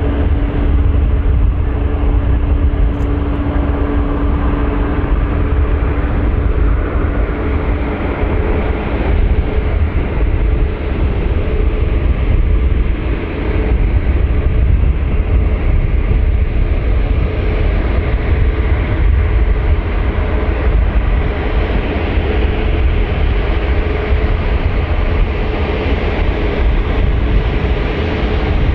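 Steady vehicle noise: a deep, continuous rumble with two faint steady hums over it, the lower hum fading out about seven seconds in.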